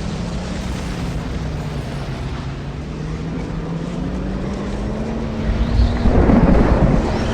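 A vehicle's engine running and slowly picking up speed, its hum rising gradually in pitch, with a loud low rumble of wind or road noise swelling up about five and a half seconds in.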